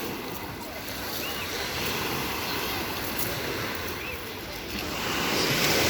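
Sea waves washing onto a pebble beach, a wave swelling louder about five seconds in, with faint distant voices of bathers.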